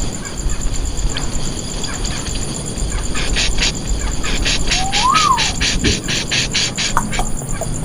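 Insects in the wild chirping: a steady high trill, joined about three seconds in by a run of raspy pulses at about four a second. Around the middle comes a short call that rises and then falls.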